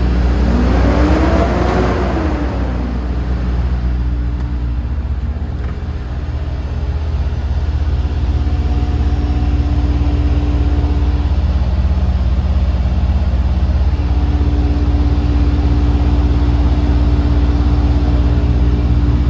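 DAF CF250 truck's turbo diesel engine idling steadily, with a brief rise and fall in pitch about a second in.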